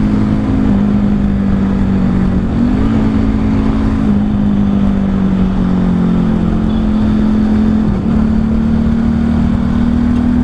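Honda CRF 150L single-cylinder four-stroke engine running through a Tridente F19 full-system exhaust set to its silent mode, while the bike is ridden. The note is steady, with small rises and dips in engine pitch a few times.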